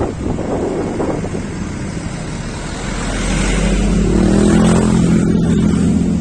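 Wind buffeting the microphone over the running of a road vehicle's engine. About three seconds in, the engine grows louder, with a steady hum that climbs slightly in pitch, as in accelerating.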